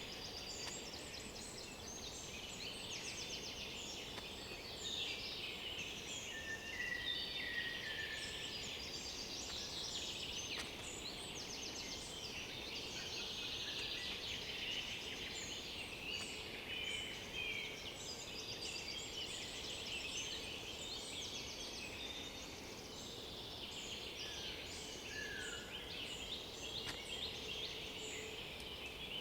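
Chorus of several forest songbirds singing at once: overlapping high trills, rapid note series and short whistles, with no pause.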